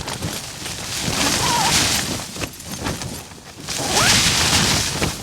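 Strong wind gusts buffeting a Hilleberg Akto tent, the fabric flapping and snapping. Two big gusts swell and die away, one about a second in and another near the end.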